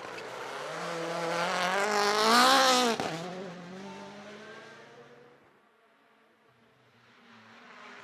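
A Rally1 rally car passes at speed, its engine climbing in pitch as it approaches and loudest about three seconds in. The pitch drops sharply as it goes by, and the sound fades away over the next couple of seconds.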